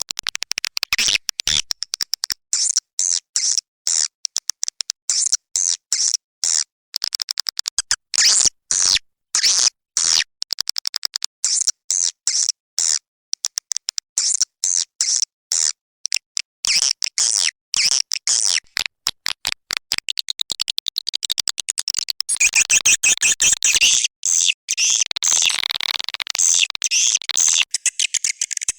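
Swiftlet calling-sound recording, the kind played to lure swiftlets into a nesting house: rapid, high-pitched chirping twitters in quick runs separated by short gaps. The chirps grow denser and overlap near the end.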